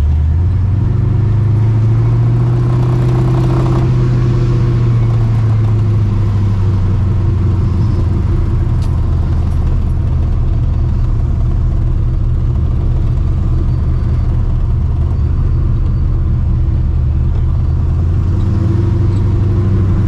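Straight-piped, Procharger-supercharged 5.4 L Ford V8 in a 1999 Mustang GT running at low revs in slow city driving. It rises briefly in pitch a second or two in, then settles back to a steady, deep rumble.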